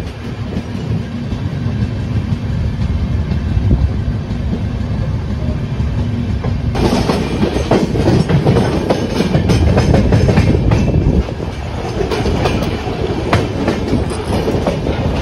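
Passenger train running at speed, heard from an open coach door. The wheels rumble steadily on the rails, and the sound suddenly turns louder and more clattering about seven seconds in, with quick rail clicks through the rest.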